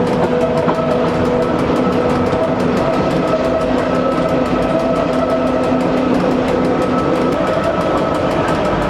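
Swiss narrow-gauge train running steadily along the track: a continuous rumble of running noise with a steady whine of several tones over it.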